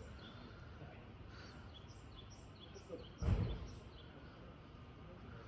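Small birds chirping in a run of short high calls over steady outdoor background noise, with a brief low thump or wind buffet on the microphone a little over three seconds in.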